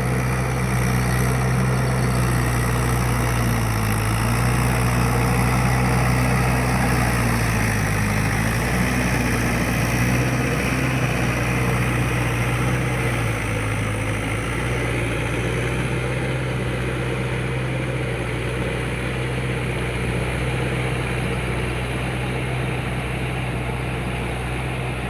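Mahindra 585 tractor's diesel engine running steadily, its note dipping briefly a few times.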